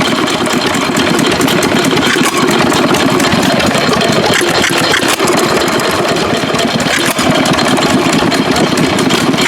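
1928 two-horsepower Stover stationary gas engine running steadily and smoothly, its once-bent connecting rod now straightened.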